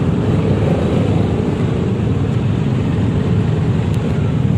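Yamaha XMAX 300 scooter's single-cylinder engine running at low speed in stop-and-go traffic, with steady road noise and a low rumble.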